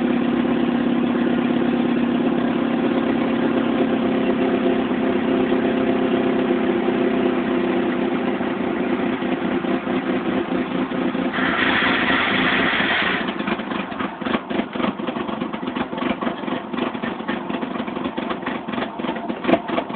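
1996 Mitsubishi Eclipse's 420A 2.0-litre four-cylinder engine running steadily, then, after a brief hiss about two-thirds in, running unevenly in choppy pulses. The rough running fits the idle and bogging fault that persisted after a new MAP sensor, crank sensor, coil pack and plugs.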